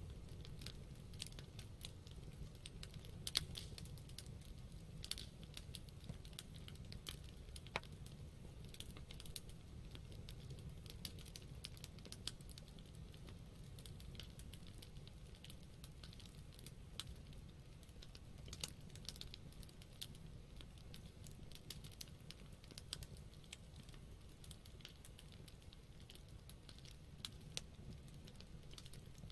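Campfire crackling: burning wood giving off irregular sharp pops and snaps over a low steady rumble, with one louder snap about three seconds in.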